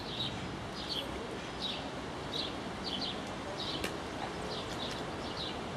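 A small songbird chirping over and over, short high notes, some doubled, about every three-quarters of a second, over a steady outdoor background hiss.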